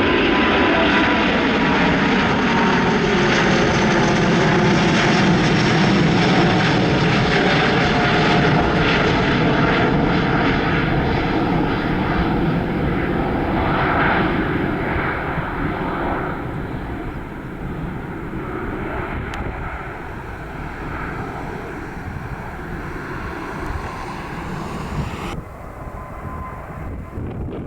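Jet airliner passing close by, its engine noise loud at first with pitch falling as it goes past, then fading away over about fifteen seconds into wind noise on the microphone.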